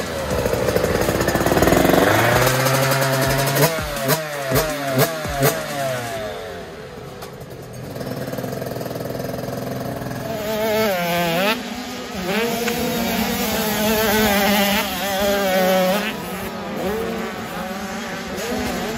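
85cc two-stroke motocross bike engines revving, their high buzz rising and falling again and again as the riders open and close the throttle.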